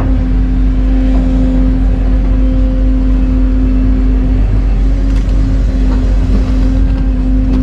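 Large excavator's diesel engine running steadily, with a constant whine over the deep rumble and a few light clunks.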